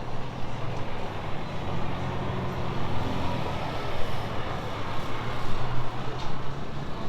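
A car engine running steadily at low revs: a continuous low rumble with street noise around it.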